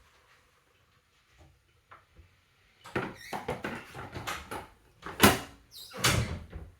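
Clattering and knocking of hard objects being handled, with a sharp bang a little after five seconds in and another knock about a second later.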